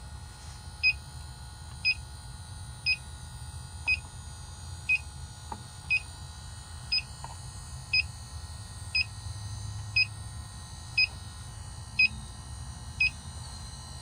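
Inficon electronic refrigerant leak detector beeping at a slow, even rate of about one short high beep a second, never speeding up: its idle rate, with no leak being picked up. A low steady hum lies underneath.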